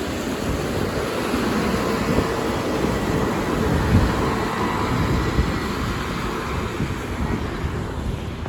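City bus running past, its engine and tyres swelling to a peak about four seconds in and then easing, with wind buffeting the microphone.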